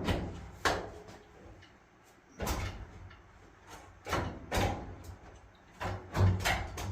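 A series of irregular knocks and thumps as the dryer's front housing panel is pushed and shifted into place, working its slots into the frame.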